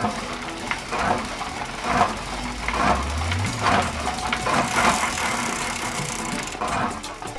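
Mini tractor engine running, with some rattling and a low rumble that rises about three seconds in.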